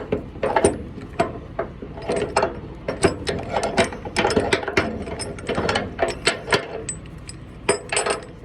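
Steel tie-down chain and ratchet binder being handled: irregular metallic clanks and clinks of chain links and hardware knocking together.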